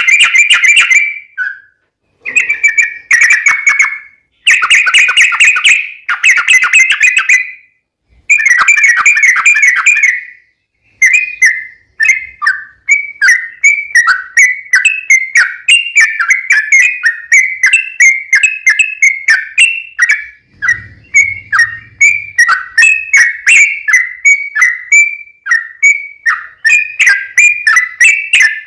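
Yellow-vented bulbul (trucukan) song: for the first ten seconds or so, loud bursts of rapid chattering about two seconds long with short gaps between them, then a long unbroken run of quick bubbling notes at about two or three a second.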